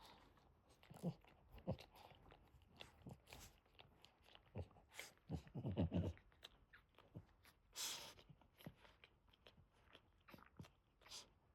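Faint, irregular wet mouth sounds and soft shuffles from a Boston terrier mother tending her newborn puppies, with a cluster of soft thumps partway through.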